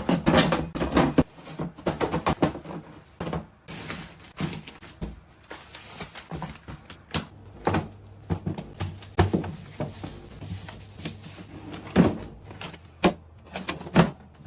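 Irregular clicks, knocks and light clatter of food containers and lids being handled and packed into a refrigerator, with some rustling between the knocks.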